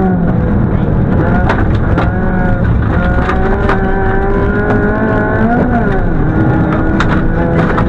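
Toyota Corolla FX-GTi rally car's four-cylinder twin-cam engine heard from inside the cabin at speed. The revs rise and fall with lifts and gear changes, the biggest drop coming about three-quarters of the way through, over sharp knocks and clatters.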